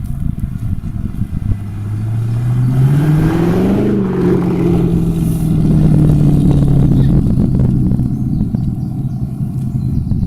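A car engine accelerating hard. Its pitch climbs for about two seconds, then falls away and holds a steady drone.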